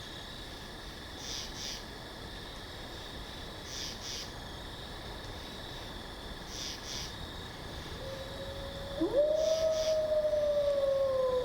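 A long canine howl begins about eight seconds in. It starts low, jumps sharply up in pitch, then is held and slides slowly downward. Behind it is a faint steady forest ambience with soft paired chirps every two to three seconds.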